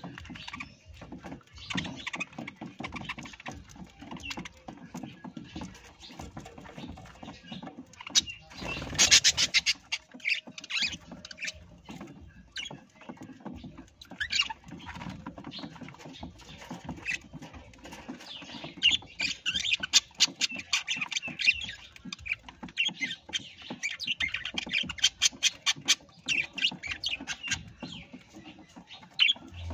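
Parrots calling and chattering in quick runs of short notes, loudest in a brief burst about nine seconds in.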